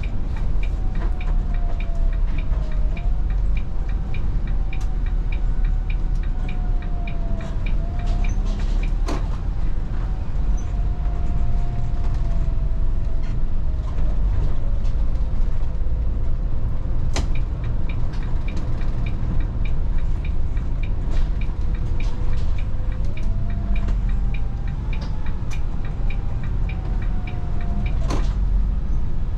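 Inside a Volvo 8900 city bus under way: a steady low engine and road rumble, with a whine that drifts up and down in pitch as speed changes. A fast, even ticking runs through the first dozen seconds, and a few sharp knocks come at intervals.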